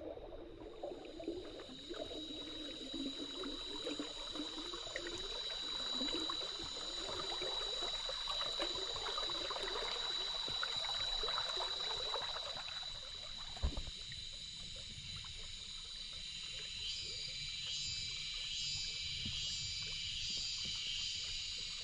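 Shallow stream water trickling and splashing over stones, under a steady high insect drone. About fourteen seconds in, the water sound drops away, leaving the insect drone and pulsing chirps.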